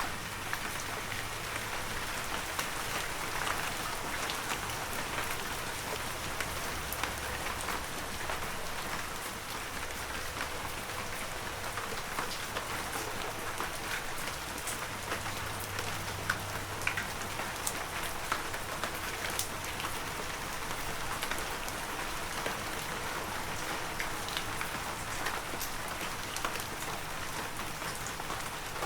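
Heavy rain falling steadily, a dense even hiss with many individual drops ticking sharply close by.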